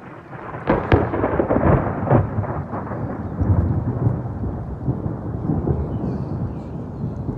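A thunderclap: a sudden crackling onset about half a second in, then a long rolling rumble that slowly dies away.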